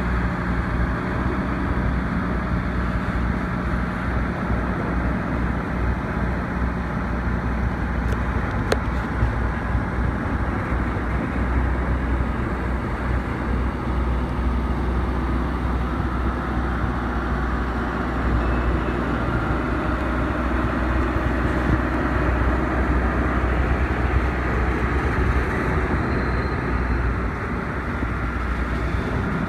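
Train running by with a steady, heavy low rumble and hum, and a single sharp click about nine seconds in.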